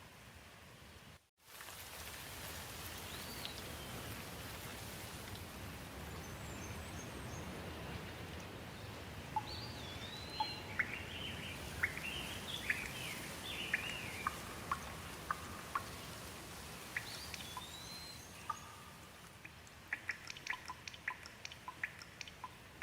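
Scattered water drops dripping, cut off by a brief dropout about a second in. Then steady rain falls with birds chirping over it, and near the end the rain thins back to scattered drips.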